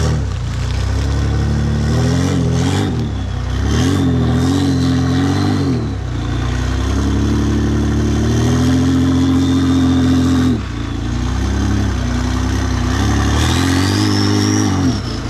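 Off-road 4x4's engine revving hard in repeated surges on a competition track. It is held high for a couple of seconds mid-way, then drops off. A thin high whine rises and falls over the engine near the end.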